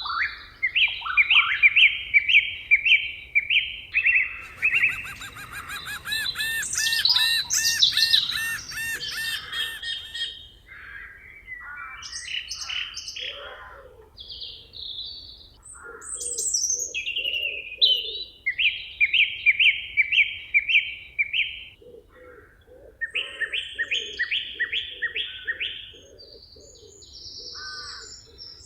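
Several songbirds singing together in a forest chorus: runs of quick repeated chirping notes, a dense rapid trill from about four to ten seconds in, and a lower repeated pulsing call through the second half.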